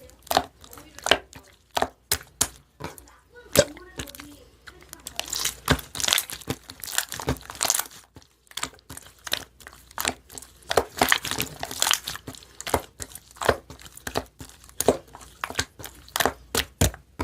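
Marbled slime being squeezed and pressed by hand, giving quick, irregular pops and clicks with stretches of denser crackling.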